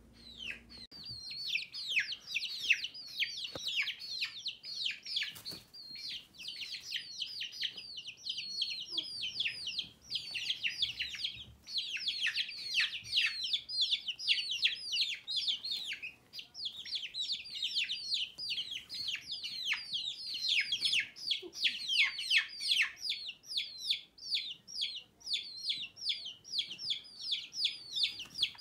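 Several baby chicks peeping nonstop: a rapid, unbroken stream of high, short peeps, each sliding downward in pitch.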